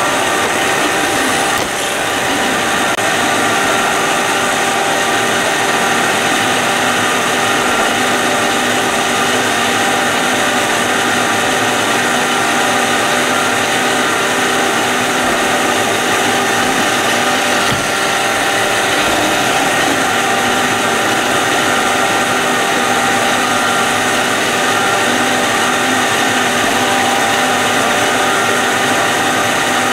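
iRobot Roomba robot vacuum running: the steady whine of its motors over a constant rushing noise.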